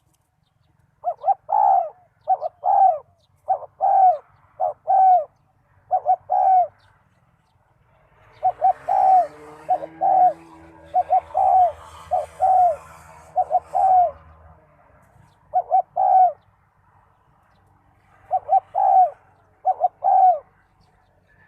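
A zebra dove cooing: repeated phrases of quick, staccato coo notes in a rhythmic pattern, with short pauses between phrases. A low hum and faint hiss run under the calls through the middle section.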